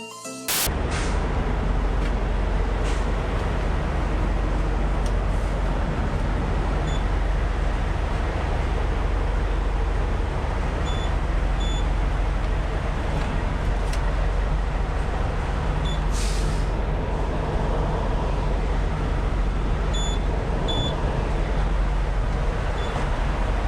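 Steady low rumble of a semi-truck driving, engine and road noise heard from inside the cab. A brief hiss comes about two-thirds of the way through.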